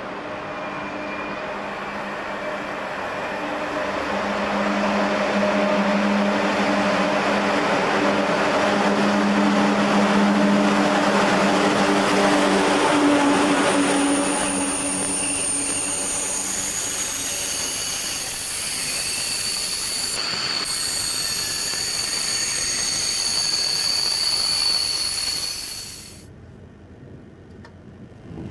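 Eurostar high-speed train running into a station platform: a rumble with a low hum that grows louder as it draws near, then a high-pitched squealing from about halfway as it slows along the platform. The sound cuts off suddenly a couple of seconds before the end, giving way to a quieter rumble.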